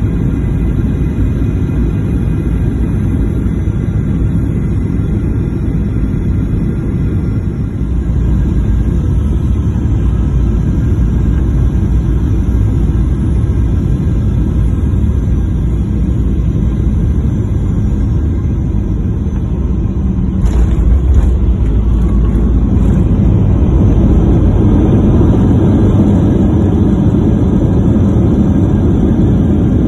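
Aeroplane cabin noise in flight: a steady low rumble of engines and airflow. About two-thirds of the way through there is a brief rattle, and after it the rumble is slightly louder.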